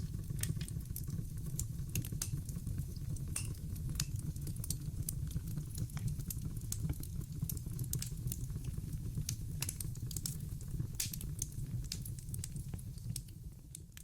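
Logs burning in a fireplace, crackling and popping in irregular sharp snaps over a steady low rumble. The sound starts to fade out near the end.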